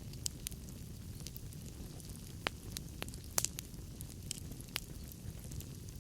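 Wood fire burning in a fireplace: a steady low hiss of the flames with irregular sharp crackles and pops from the logs, the loudest pop about three and a half seconds in.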